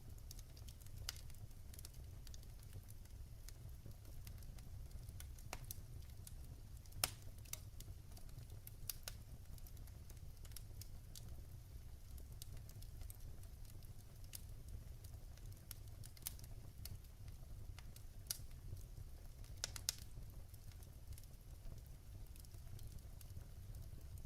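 Wood fire burning in a fireplace, with a steady low rumble and scattered sharp crackles and pops.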